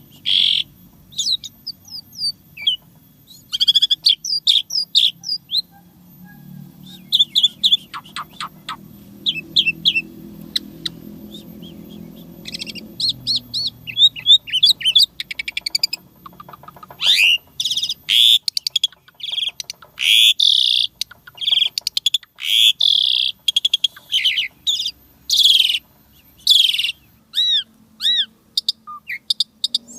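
Asian pied starling (jalak suren) singing a fast, varied song of short whistled and chattering notes. In the second half the notes come thicker and louder, with some arched, falling whistles near the end. A faint low hum sits under the song in the middle.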